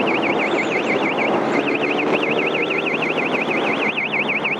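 Electronic alarm tone warbling rapidly up and down, about six sweeps a second, breaking off briefly about a second and a half in, over the steady running and wind noise of a motorcycle on the move.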